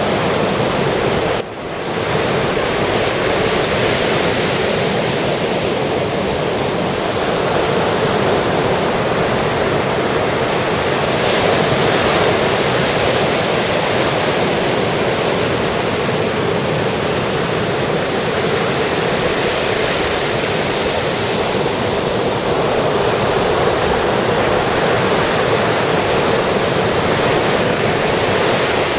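Ocean surf washing onto the beach in a continuous, steady rush, with a brief dip in level about a second and a half in.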